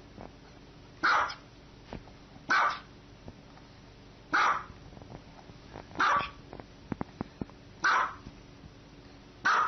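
A dog barking: six single barks, about one every one and a half to two seconds.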